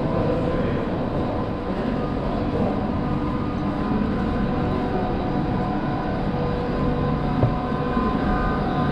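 Steady mechanical hum of a train standing at the station platform, with one short knock about seven and a half seconds in.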